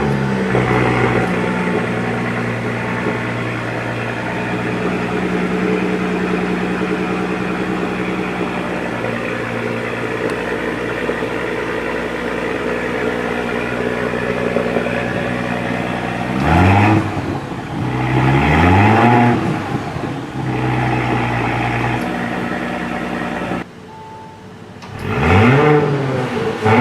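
Audi SQ5's 3.0-litre turbocharged V6 petrol engine idling steadily, just after starting. After about sixteen seconds it is revved in three quick blips that rise and fall in pitch. It drops back briefly, then is revved once more near the end.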